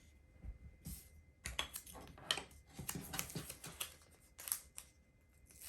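LEGO pieces and a sticker sheet being handled: clusters of small plastic clicks and rustles, several in quick succession.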